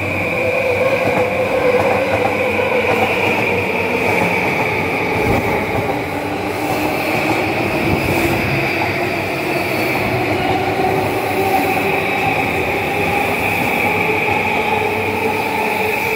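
Two JR East E235 series Yamanote Line electric trains passing each other at low speed. The wheels run on the rails with a steady high squeal, under the whine of electric motors that drifts slowly in pitch.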